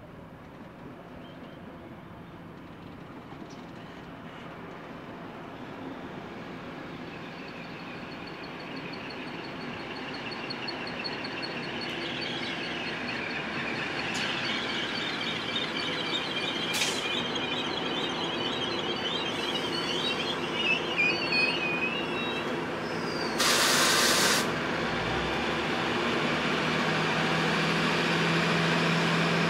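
Endeavour diesel railcar set approaching and passing, its running noise growing steadily louder throughout. Wavering, high-pitched wheel squeal sounds through the middle stretch as it takes the curve, then comes a brief loud hiss. A steady low engine hum follows as the cars go by near the end.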